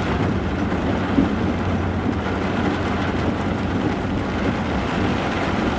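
Steady engine and road noise heard from inside a car's cabin as it drives slowly, with a constant low hum.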